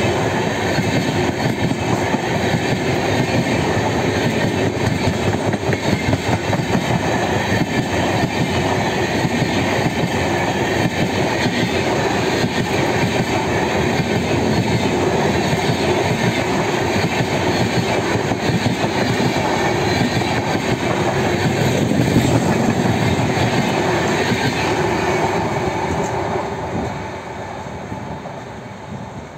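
LHB passenger coaches of an express train rolling past at speed, a steady loud rumble with the wheels clattering over the rails. About 27 seconds in the sound drops away as the last coach passes and the train moves off.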